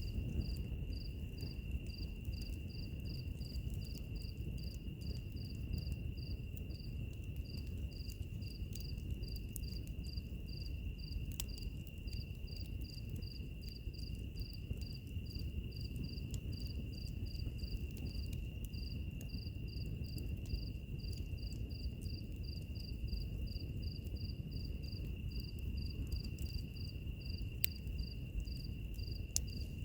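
Crickets chirping in a steady rhythm, about three chirps a second, over a continuous high insect trill. Beneath them is the low rumble of a wood fire, with a few sharp crackles.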